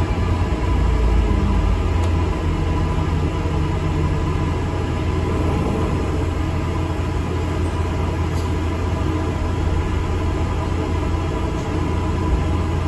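Cabin noise of an ADL Enviro 400 MMC double-decker bus on the move: a steady low engine-and-road rumble with a faint hum above it.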